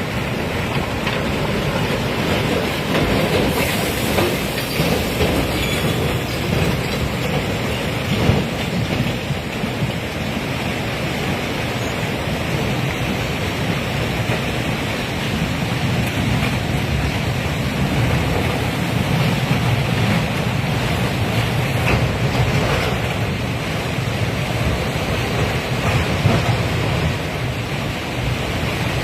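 Steady, loud rushing noise of a landslide: muddy water and debris pouring down the slope, with a low rumble underneath.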